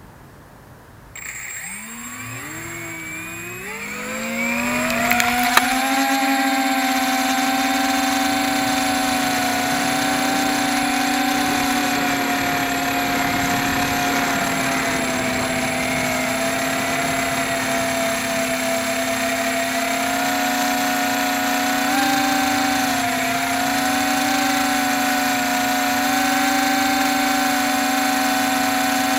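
Small quadcopter's electric motors spinning up over a few seconds, then whining steadily in flight, their several pitches wavering against each other. The quad flies rough, with a bad motor and a loose arm.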